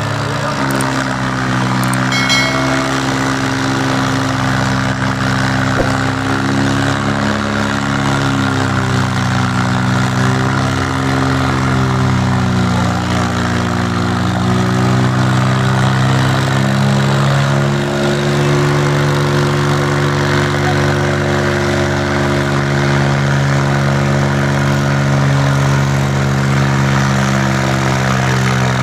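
Diesel tractor engines running hard under heavy load, their pitch slowly rising and sagging, as the tractors pull against each other in a tug-of-war.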